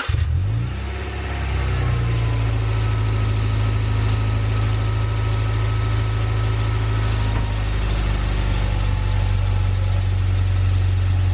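Honda Prelude's H22 four-cylinder VTEC engine idling steadily with the air-conditioning compressor running on it. The noise is what led the owner to replace the faulty compressor.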